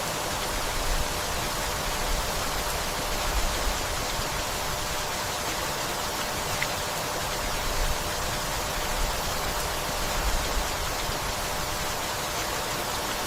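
Steady rainfall, an even, dense hiss with small irregular swells.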